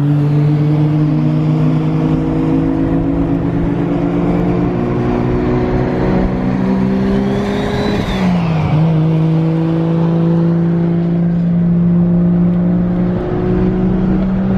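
Car engine running steadily at cruising revs. About eight seconds in, the engine note dips briefly and climbs again, as with a throttle lift or gear change. A faint high whine rises and falls at the same moment.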